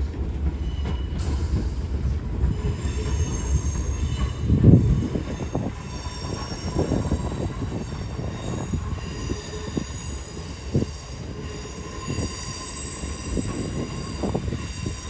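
Class 465 Networker electric multiple unit running slowly along the platform, its wheels giving a steady high squeal over a rumble with irregular low knocks from the wheels on the track, one heavier knock about five seconds in. The sound slowly fades as the train slows.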